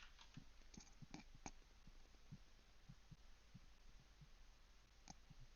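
Near silence, with faint scattered computer keyboard keystrokes over a low steady hum.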